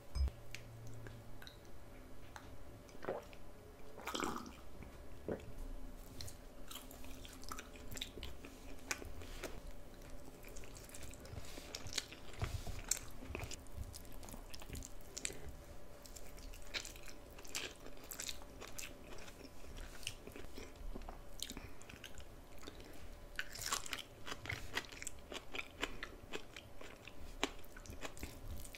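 Close-miked chewing and biting of a meal of rice, potato fries, bok choy and jack mackerel in tomato sauce: a steady run of small irregular mouth clicks and smacks, busiest about four seconds in and again near the end.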